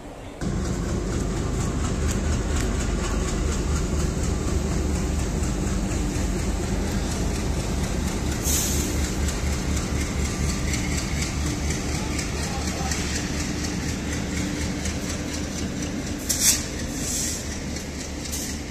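Diesel-hauled passenger train passing close by: the locomotive's engine runs with a low, even throb while the coaches' wheels rumble along the rails. Two brief high-pitched noises come through, one near the middle and a louder one near the end.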